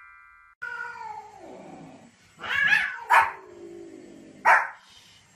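A small white Pomeranian and a cat facing off: long yowls that fall in pitch, with three or four short, sharp barks among them.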